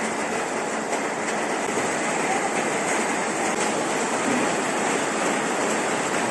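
Heavy rainstorm: the steady hiss of a downpour.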